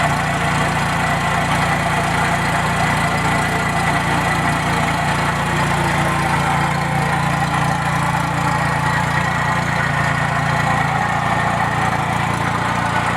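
A 2003 Arctic Cat Bearcat Widetrack snowmobile's four-stroke engine idling steadily.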